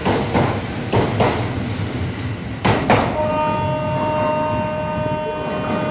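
Kintetsu 2680 series train pulling out, its wheels clacking over rail joints in close pairs, three pairs in the first three seconds. About halfway through, a steady high-pitched ringing of several tones sets in and holds.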